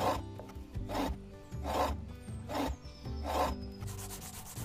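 Hand chisel shaving wood on a foot-pedalled reciprocating lathe, the wood spinning back and forth. The cut comes in five even rasping strokes, about one every 0.8 seconds, following the pedal's rhythm.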